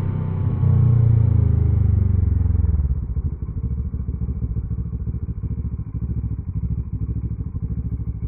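2014 Kawasaki ER-6N 650 cc parallel-twin engine with a gutted end can, its note easing down as the bike rolls to a stop, then settling about three seconds in to an even, pulsing idle.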